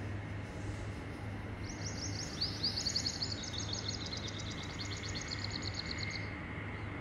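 A small bird singing rapid, high trills, starting about one and a half seconds in and stopping about six seconds in, over a steady low hum.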